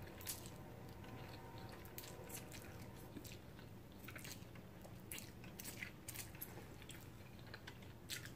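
Faint close-miked chewing of a mouthful of spicy instant noodles, with scattered small wet mouth clicks.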